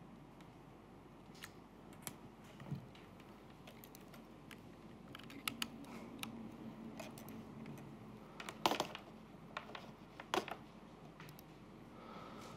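Faint laptop keyboard typing: irregular, scattered keystrokes, with a few louder clicks about two-thirds of the way in.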